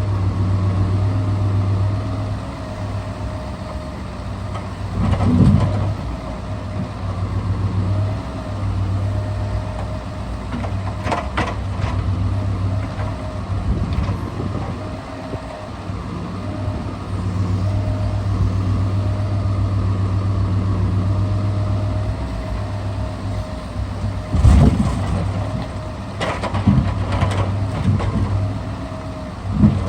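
Scania R650's V8 diesel engine running steadily while driving the Epsilon timber crane's hydraulics, its note rising and falling in long stretches as the crane works. A handful of heavy knocks, from logs and the crane, break in several times.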